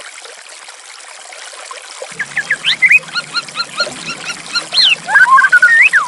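Water trickling steadily, joined about two seconds in by a white-rumped shama singing a fast run of clear whistled notes, repeated short phrases and quick rising and falling glides that grow louder.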